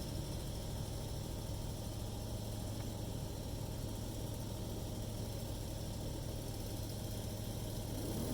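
A steady low hum that does not change in pitch or level.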